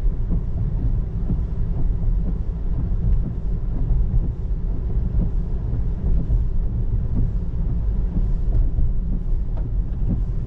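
Steady low rumble of tyre and road noise inside the cabin of a moving 2024 Tesla Model 3 electric car on wet roads, with faint scattered ticks over it.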